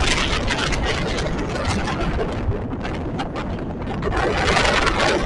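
Wind buffeting the microphone: a gusty rumbling rush that eases a little around the middle and picks up again near the end.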